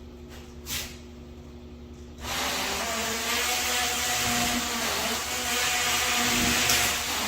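A handheld power tool switches on about two seconds in and runs steadily under load. Before that there is a faint hum and a single click.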